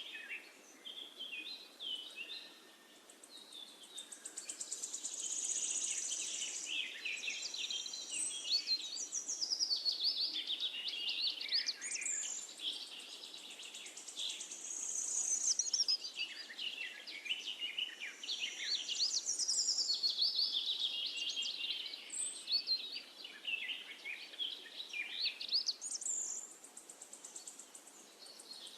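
Birdsong: several small birds chirping and trilling in quick high-pitched phrases that rise and fall, with a faint steady hiss beneath.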